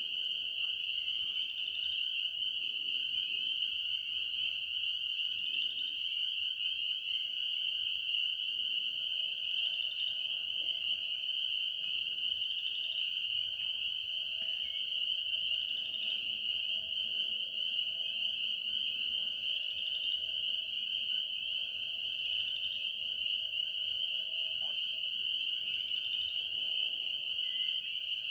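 Night-time chorus of calling animals, heard as a continuous high-pitched trill that holds steady throughout, with fainter higher and lower trilling layers beneath it.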